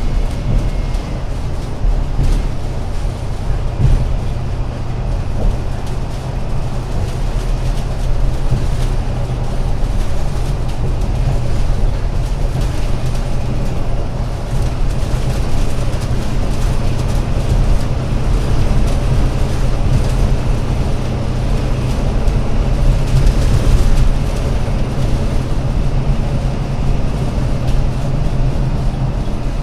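Alexander Dennis Enviro500 MMC Euro 6 double-decker bus's diesel engine running steadily with a deep, low rumble.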